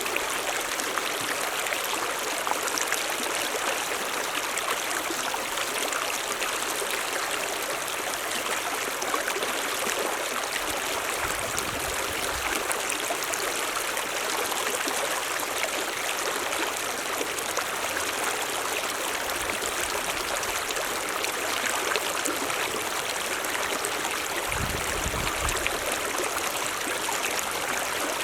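Mountain stream running steadily, an even rushing and splashing of water, with a couple of brief low rumbles about a third of the way in and near the end.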